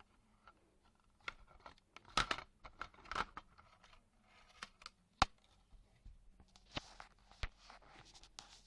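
Handling noises: irregular clicks, taps and short rustles, the loudest a single sharp click about five seconds in.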